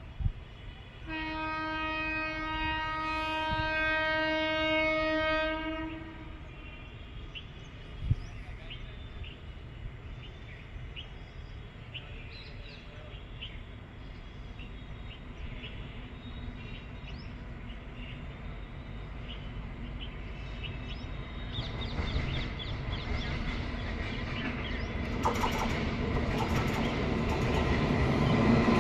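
Train horn sounding one long steady blast for about five seconds, then the rumble of an approaching train building steadily louder, with wheels clicking over rail joints in the last several seconds.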